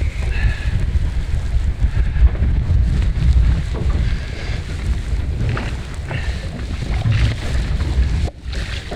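Strong wind buffeting the microphone in gusts, a heavy uneven rumble.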